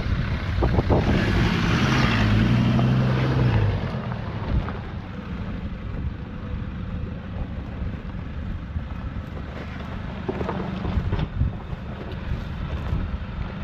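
Four-wheel-drive engine working hard under load for the first few seconds, its pitch easing down, then running steadily at lower revs, with a few knocks near the end. Wind buffets the microphone.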